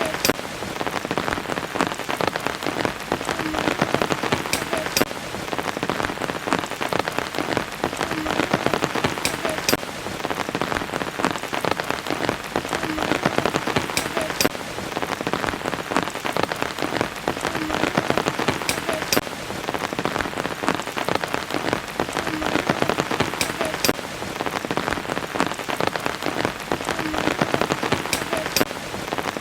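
Steady rain, a dense spread of drop hits with sharper single drops every few seconds. The same stretch repeats about every five seconds: a looped rain recording.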